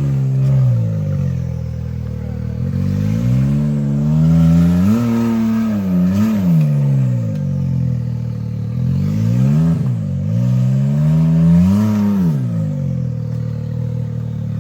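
Side-by-side (UTV) engine revving up and falling back several times as the throttle is worked in bursts while crawling up over rocks.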